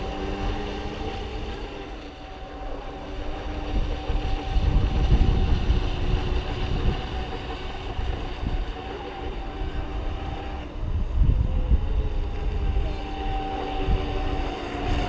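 Brushless electric motor of an RC racing boat whining steadily out on the water, its pitch drifting a little with throttle. Gusts of wind rumble on the microphone twice.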